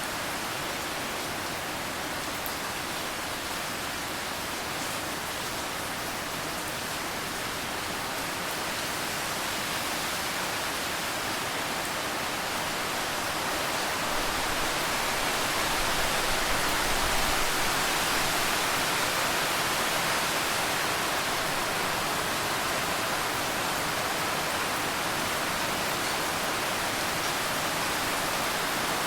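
Steady, even hiss of rain falling, growing a little heavier about halfway through.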